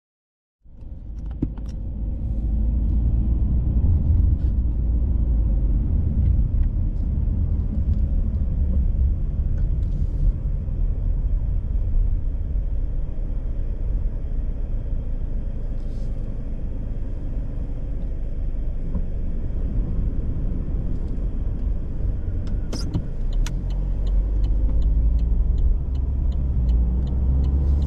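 Car driving: a steady low rumble of road, engine and wind noise that starts abruptly under a second in, with a few sharp clicks and knocks near the end.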